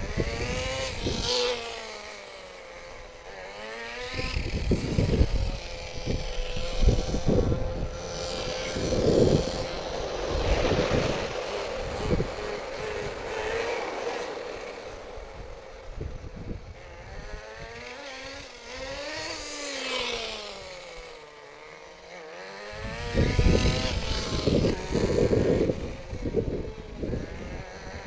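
Small two-stroke .15 nitro engine of a Thunder Tiger DT10 RC truck revving up and down as the truck runs on the street, its high buzzing note repeatedly rising and falling. Stretches of loud low rumbling come in between, strongest in the first half and near the end.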